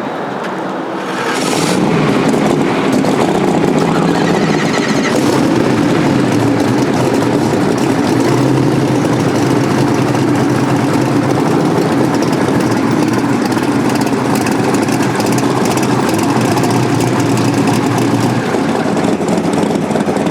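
A car's engine running steadily under way, with road noise. It gets louder about a second and a half in.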